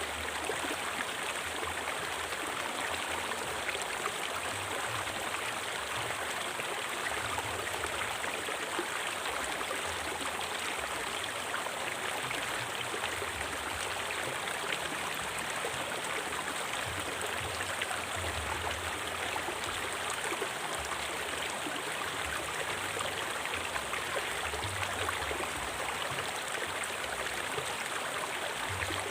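River water flowing steadily, a continuous rushing sound.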